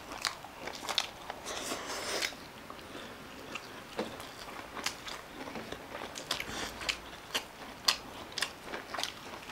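A person chewing and biting food close to the microphone, with irregular crisp crunches.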